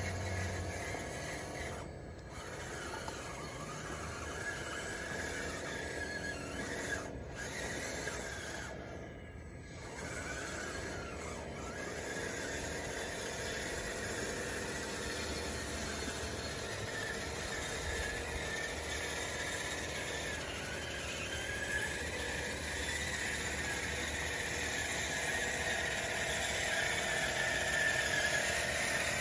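DXR2 radio-controlled bulldozer's electric drive motors and gears whining and squealing as it works, the pitch rising and falling with the throttle, dipping briefly twice.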